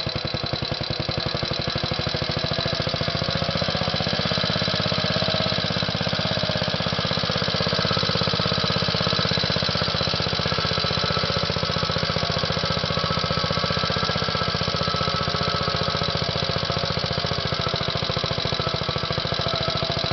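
Small engine running steadily at a constant speed, with a rapid, even firing beat throughout.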